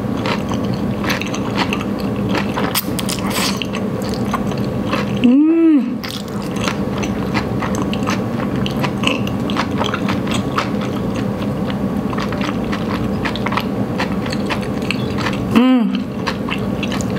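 A person chewing a very large mouthful of thick udon noodles, with wet chewing and many small mouth clicks throughout. A short closed-mouth hum, rising then falling in pitch, comes about five seconds in, and a briefer one near the end.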